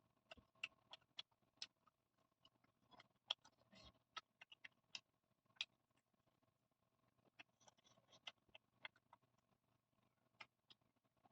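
Close-miked eating: soft chewing with many short, sharp, wet mouth clicks, coming irregularly and sometimes in quick runs, over a faint steady hum.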